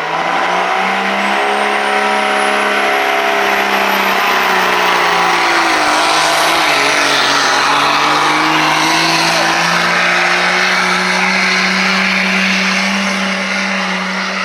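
Pulling truck's engine at full throttle under heavy load during a pull run. It holds a loud, steady high note, with a thin high whine climbing over the first few seconds. The note sags briefly near the middle and drops off near the end as the run finishes.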